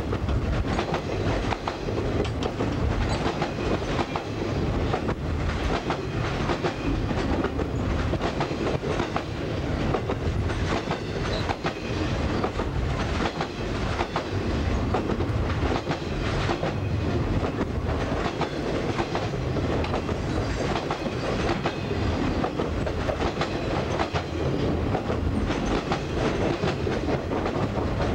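Freight train of loaded flatcars rolling steadily past at close range: continuous rolling noise with frequent sharp clacks of the wheels over the rail joints.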